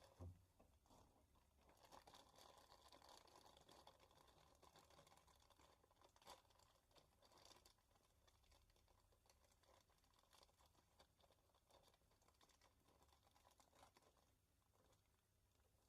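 Near silence: faint room tone with a soft thump just after the start, a click about six seconds in and a few small rustles. No lathe is running.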